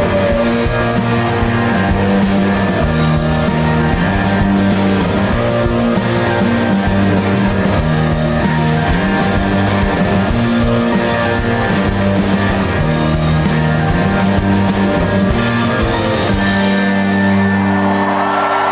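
Rock band playing live, with electric guitars, bass and drums in an instrumental passage. About three-quarters of the way through, the drums stop and a final chord rings on, and the crowd starts cheering at the very end.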